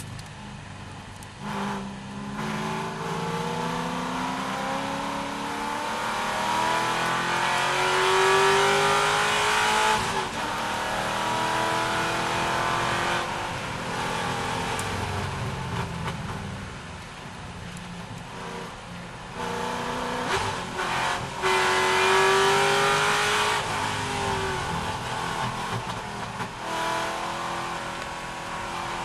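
C6 Corvette V8 racing, its engine note climbing in pitch under hard acceleration for several seconds at a time. The pitch drops suddenly about a third of the way in, breaks briefly a couple of times around two-thirds of the way through, then climbs again.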